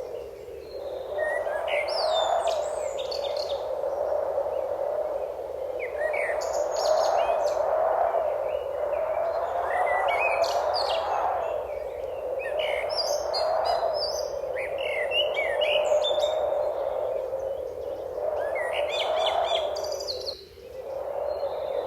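Songbirds chirping and calling in quick, pitch-sliding phrases that come and go throughout, over a steady lower wash of sound that swells and fades every few seconds.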